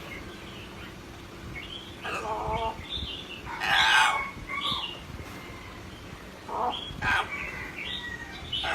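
Pet parrot giving a string of short chirps and squawks, about five separate calls, the loudest about four seconds in.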